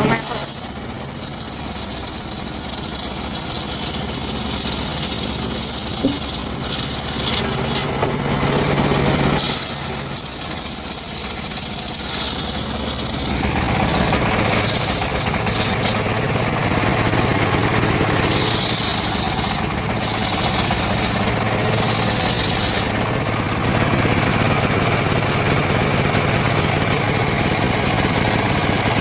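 An engine running steadily, its tone and noise changing a couple of times.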